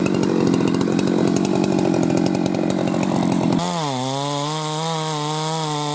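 Chainsaw running hard in a cut through a tree trunk. About three and a half seconds in, the sound changes abruptly to a cleaner, steadier saw note that drops in pitch and then holds.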